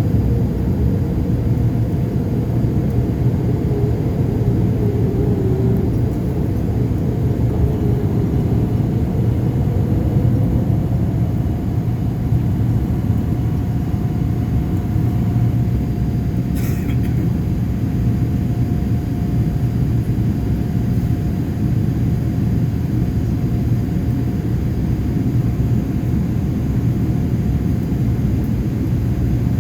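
Cabin noise inside a Boeing 787-8 in flight or on its takeoff run: the jet engines and rushing air make a loud, steady rumble with a faint steady hum over it. A single short click comes about two-thirds of the way through.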